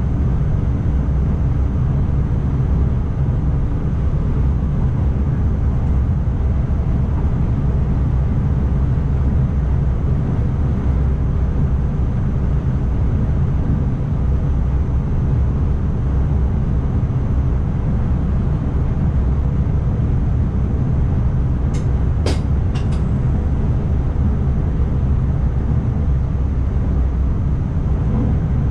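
ICMm electric intercity trainset running, heard from the driver's cab: a steady low rumble, with a few sharp clicks about twenty-two seconds in.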